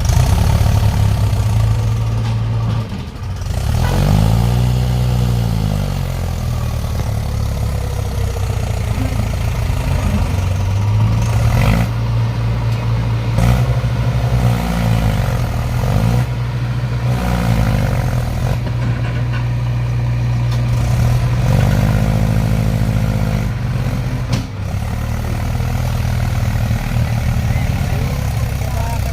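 Heavy diesel engines of a JCB and a Mahindra tractor running under load while the JCB pushes the tractor, revving up and back down several times.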